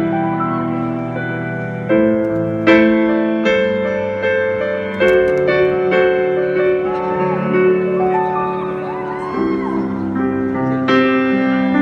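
Live piano playing slow, sustained chords, with a fresh chord struck every second or so and the notes left to ring between them.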